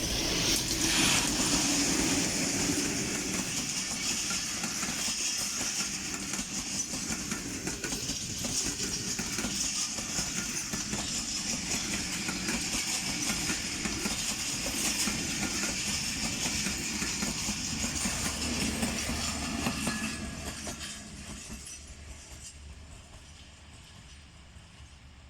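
Rehman Baba Express passenger coaches rolling past at speed, wheels clattering over the rail joints under a steady high hiss. About 20 seconds in, the sound begins to fade steadily as the train moves away.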